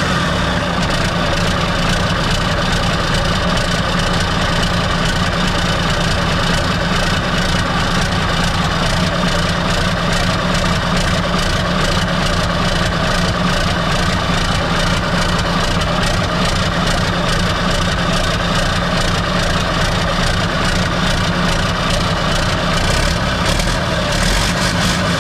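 Old Mack R model truck's diesel engine idling steadily, running on fuel fed straight into the injection pump from a squeeze bottle with the primary and secondary filters bypassed. It is running after sitting for years, which points to a filter problem rather than a stuck pump.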